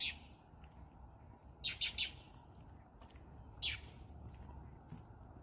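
A small bird calling in short, sharp chirps that fall in pitch: one at the start, a quick run of three about two seconds in, and another near the end, over a faint low background hum.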